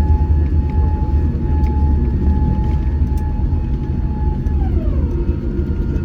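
Boeing 787 Dreamliner cabin noise on the landing roll: a loud, steady low rumble with a steady engine whine that glides down in pitch about four and a half seconds in, as the engines spool down.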